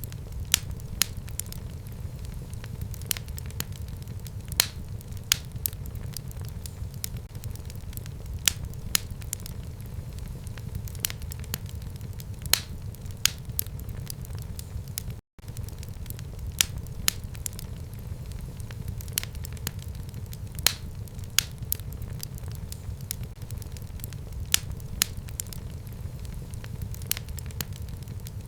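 Wood fire burning in a home fireplace: a steady low rumble of flames with constant irregular crackling and an occasional louder pop. The sound drops out for an instant about halfway through.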